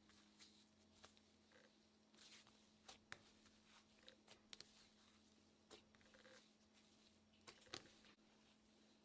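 Near silence: a low steady hum with faint, scattered small clicks and soft rustles.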